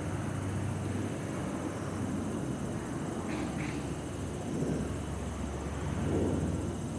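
Night city ambience: a steady low rumble of distant traffic with a droning hum, and faint high chirring of insects, bell crickets among them. Two short high chirps come about halfway through.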